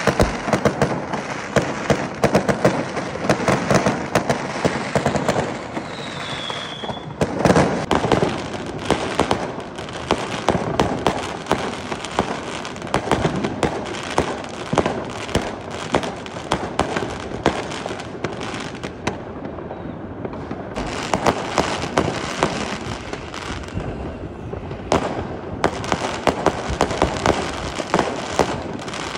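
Many aerial fireworks bursting at once: a dense, continuous barrage of bangs and crackles, with a brief high whistle about six seconds in.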